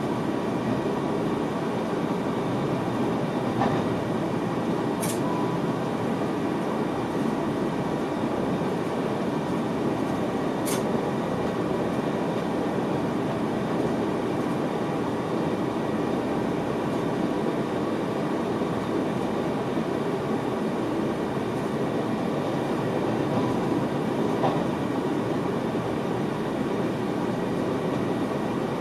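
Steady rumble of an NS VIRM double-deck electric train running along the track, heard inside the driver's cab, with a few faint steady tones. Two short sharp clicks come about five and eleven seconds in.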